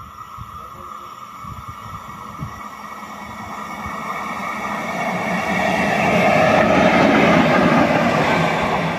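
A train approaching and going by, growing steadily louder to its loudest about six to eight seconds in, then easing off slightly near the end.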